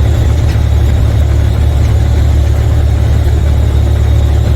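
Semi truck's diesel engine running steadily under load on a mountain climb, heard from inside the cab as a loud, even low drone.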